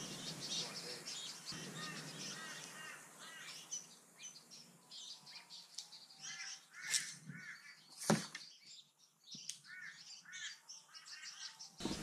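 Birds chirping and calling in repeated short notes, with a single sharp knock about eight seconds in.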